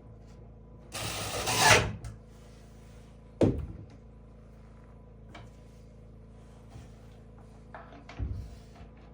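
Woodworking on cabinet doors: a loud, noisy burst lasting about a second, then a single sharp knock, and a smaller clatter near the end.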